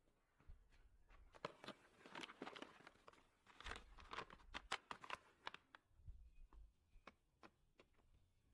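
Faint, scattered rustles and soft light knocks of hands working with flour and dough in a bowl, busier in the first half and thinning out later.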